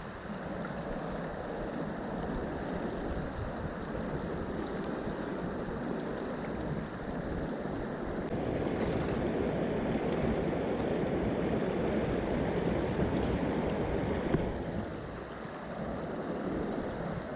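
Mountain stream rushing over rocks as a steady watery rush. It grows louder about eight seconds in and eases back near the end.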